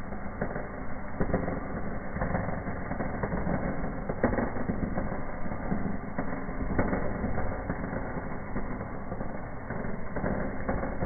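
Chimney firework burning in a fireplace: a steady rushing crackle, with two sharper pops about four and seven seconds in.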